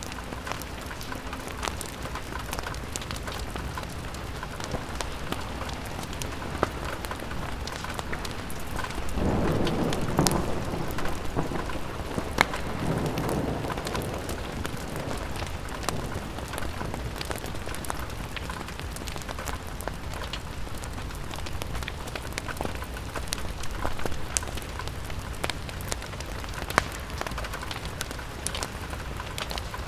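Steady rain on a window pane with scattered sharp ticks and crackles. A low rumble swells about nine seconds in and fades away over several seconds.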